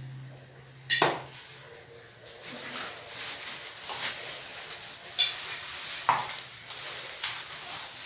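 Plastic parts of a vacuum cleaner being handled, knocking and clicking against each other, with rustling between; a sharp knock about a second in and another near six seconds.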